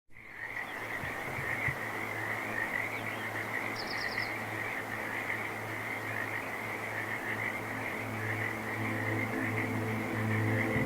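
A steady outdoor animal chorus, many callers overlapping in a dense high band, with a brief rapid high trill about four seconds in. Music with sustained tones fades in near the end.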